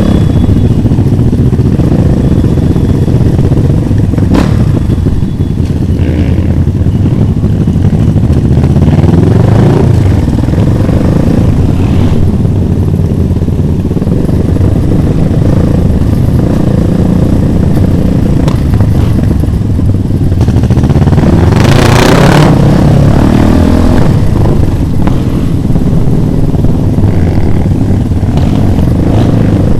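Motorcycle engine running while riding, its pitch rising and falling as it revs up a couple of times.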